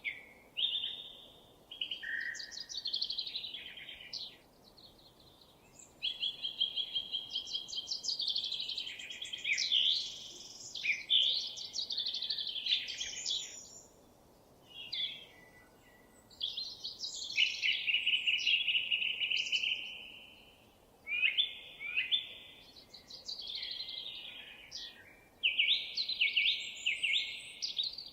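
A songbird singing long, varied phrases of rapid trills and warbles, with short pauses between phrases, over faint steady background noise.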